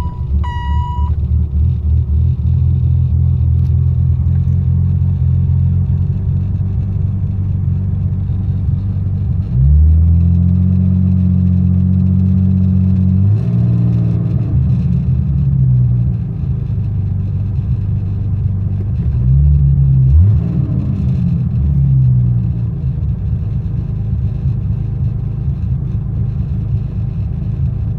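BMW M106 turbocharged straight-six running rough at a cold idle just after start-up, the fault that makes it want to die when cold. The owner wonders whether it is the cold start injector. About ten seconds in the revs rise and hold for a few seconds, then fall back, and several shorter rises and falls follow. A steady electronic beep sounds during the first second.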